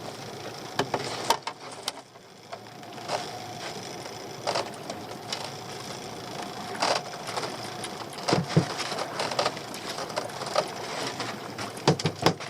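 Scattered clicks and knocks from fishing tackle being handled aboard a small boat, over a steady hiss of wind and water. A short cluster of louder knocks comes near the end.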